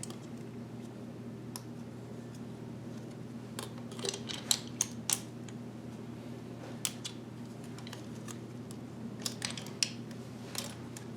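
Scattered light clicks and taps of a 3.5-inch hard drive being handled and fitted into a plastic drive bracket, in clusters a few seconds apart over a steady low hum.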